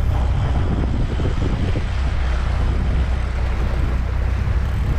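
A fishing boat under way: the motor runs with a steady low drone, mixed with wind buffeting the microphone and water rushing past the hull.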